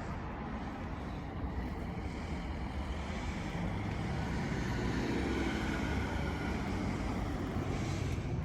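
Road traffic noise, a steady rumble that swells about four to six seconds in as a vehicle goes by.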